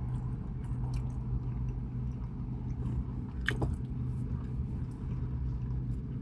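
A person chewing food close to the microphone, with small wet clicks and one sharper click about halfway through, over a steady low hum.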